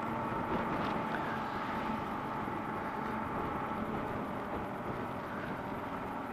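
Kawasaki KLR650's single-cylinder engine running steadily on the move, under a steady rush of wind across the microphone.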